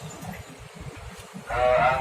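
Low rumbling noise, then about a second and a half in a loud voice calls out, its pitch bending up and down.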